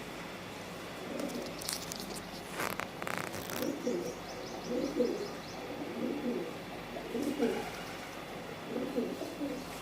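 Pigeons cooing, one low coo after another about every second or so. A brief patch of sharp clicks and rustling comes about two to three seconds in.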